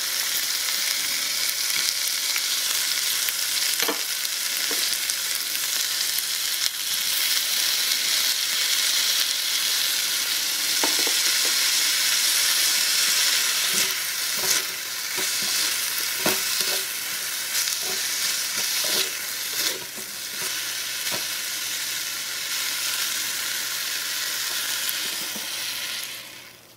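Chopped vegetables sizzling in hot oil in a miniature aluminium wok: a steady high hiss, with scattered clicks and scrapes as a wooden spoon stirs them. The sizzle dies away near the end.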